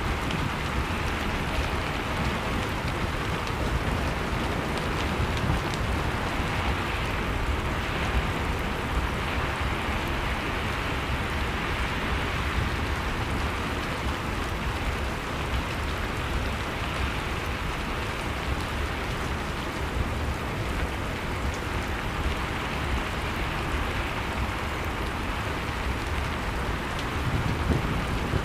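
Steady blizzard wind noise with a low rumble, mixed with a crackling fireplace that gives small scattered pops.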